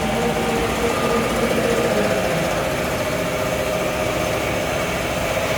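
Automatic pull-out facial tissue folding machine running with a steady mechanical hum.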